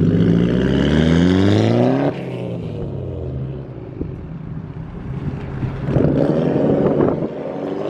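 Infiniti Q50's engine revving hard during a slide on a wet road, its pitch climbing for about two seconds before dropping off abruptly. It runs lower and quieter, then gives a second short burst of revs about six seconds in.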